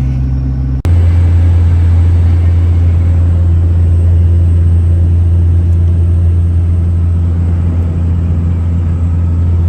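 Steady low drone of a vehicle's engine and exhaust heard from inside the cab while cruising, changing abruptly at a cut about a second in.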